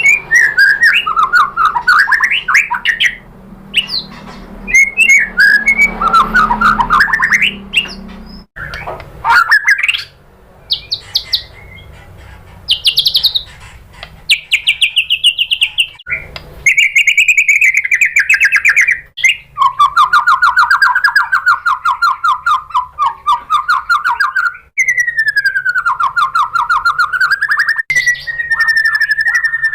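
White-rumped shama (murai batu) singing: a fast, varied run of sweeping whistled notes and trills, with long buzzy rattling phrases in the second half.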